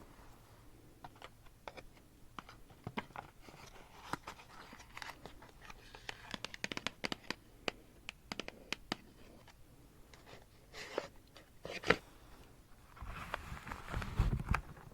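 Close-miked crinkling and crackling: irregular sharp clicks and snaps, one louder snap about twelve seconds in, then a denser rustling crunch near the end.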